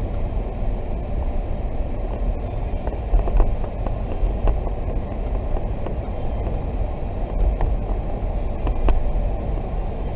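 Steady rumble of a Jeep driving on snow-covered roads, heard from inside the cabin: engine and tyre noise.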